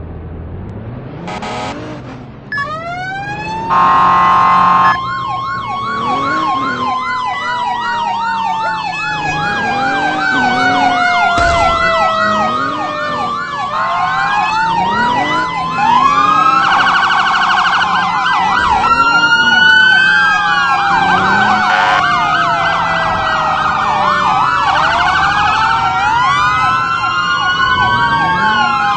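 Several fire truck sirens sounding at once: fast yelping sweeps, rising and falling wails, and long slowly falling tones overlapping one another. Steady horn blasts cut in about four seconds in and again around seventeen seconds.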